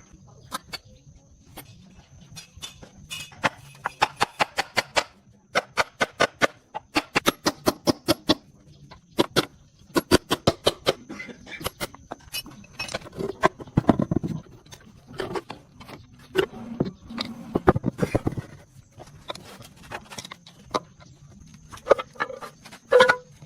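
Hand-tool work on a car: runs of rapid sharp taps in bursts of several a second, separated by short pauses, over a faint steady high whine.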